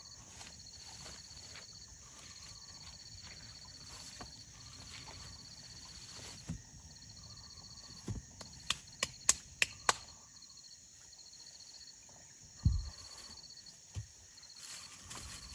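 Insects, likely crickets, trilling in repeated stretches of a high steady buzz. A quick run of about six sharp clicks comes around eight to ten seconds in, and one low thump follows a few seconds later.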